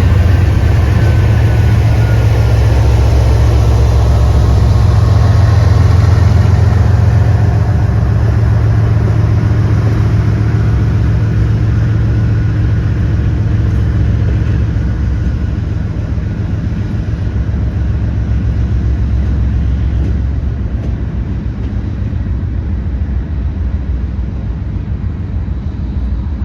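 A train going past with a loud, steady, deep rumble, its diesel locomotive engine and rolling cars. It slowly grows quieter over the second half.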